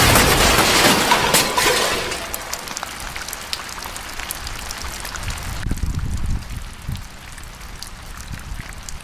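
Water splashing and pouring for about two seconds, then settling into scattered drips and trickles that fade.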